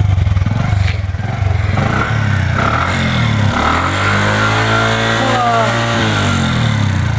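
Motorcycle engine running, steady for the first couple of seconds, then revved up once and eased back down. It is running after a faulty spark plug was found as the cause of its not starting and not pulling.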